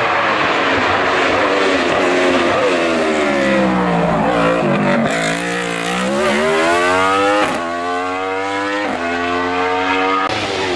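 Hill-climb race car engine slowing with falling revs into a bend, then accelerating hard away, the revs climbing and dropping at each of several quick upshifts.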